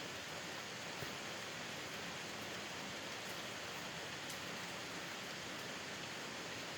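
Steady rain falling, heard from a covered porch, with a soft drop hitting a surface about a second in.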